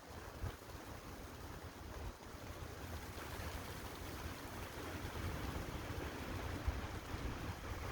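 Storm wind blowing hard in a steady rush that slowly builds, with a low rumble of gusts buffeting the microphone.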